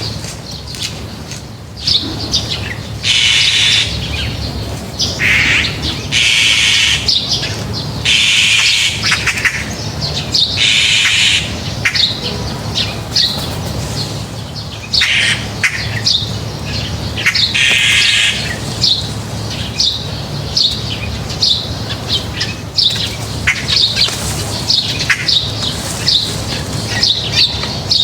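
A flock of small wild birds at a feeder chirping in quick, overlapping short calls. Several harsh, noisy bursts about a second long break in during the first twenty seconds.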